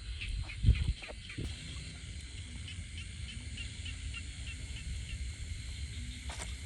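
A bird chirping over and over in short high notes, with a steady low rumble underneath and a single loud thump just under a second in.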